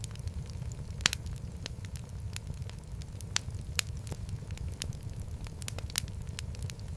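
Fireplace fire burning with a steady low rumble and irregular crackles and pops, the sharpest pops about a second in, near four seconds and near six seconds.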